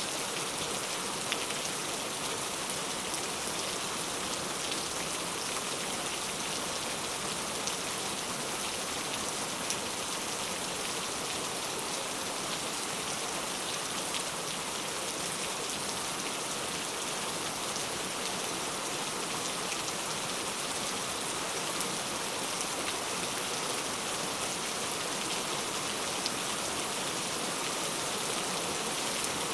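Steady rain falling, an even hiss of many drops with faint scattered individual drop ticks.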